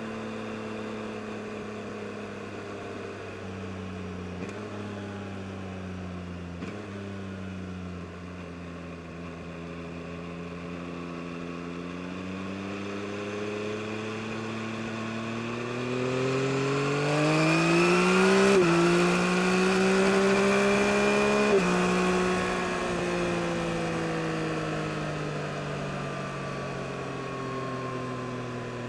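2022 Yamaha MT-09 SP's 890 cc inline-three engine under way, at first cruising fairly steadily, then accelerating hard with the note climbing for several seconds. Two quick upshifts, over halfway through, each drop the pitch sharply, the loudest part. Then the rider eases off and the engine note falls slowly.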